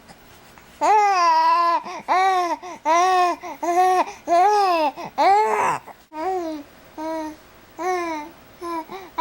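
Baby babbling: a run of short sing-song vocal syllables, each rising and falling in pitch, starting about a second in. A louder squeal comes near the middle, and the syllables turn softer toward the end.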